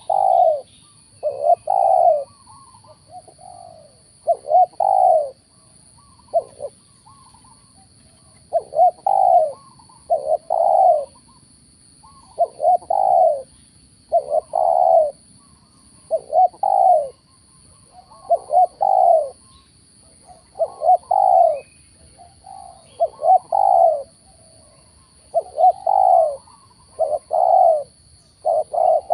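Spotted doves cooing, repeated cooing phrases of paired notes coming every second or two without a break.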